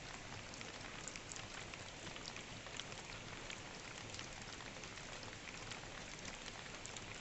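Rain falling: a faint steady hiss with scattered drops ticking.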